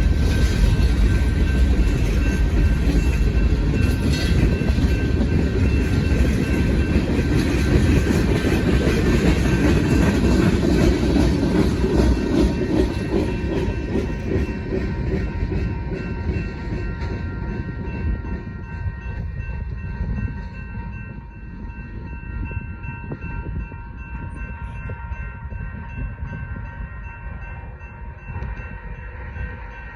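Freight cars of a manifest train rolling past, with a low rumble, wheels clacking over the rail and steady high tones ringing above. The sound fades noticeably a little past the middle as the train moves on.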